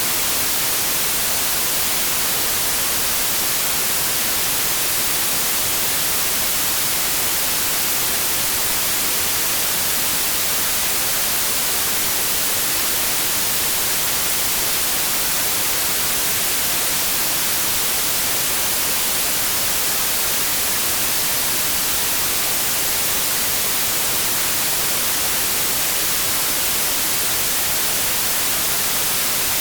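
Steady, even white noise: a constant static hiss, loudest in the highs, that does not change.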